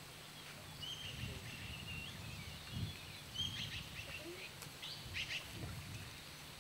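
Birds calling in short chirps and quick whistled glides, many times over, above a steady low rumble of outdoor background noise.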